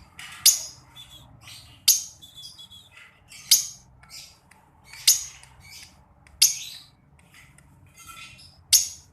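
Pet lovebird calling: six loud, shrill chirps roughly every one and a half seconds, with softer chirps in between.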